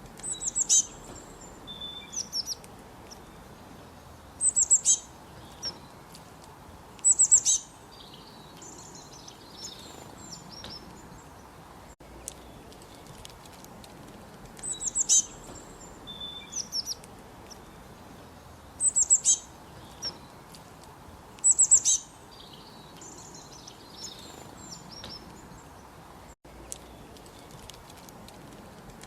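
A songbird calling in short bursts of rapid, high chirps every few seconds, over the steady rush of a flowing creek.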